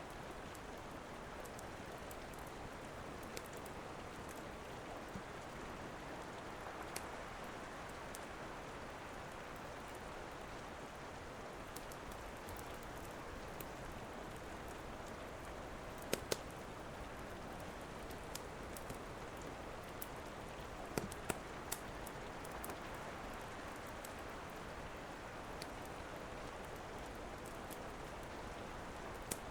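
Steady rain, with scattered sharp crackles and pops from a wood fire in a fireplace, the loudest a pair about halfway through and a few more soon after.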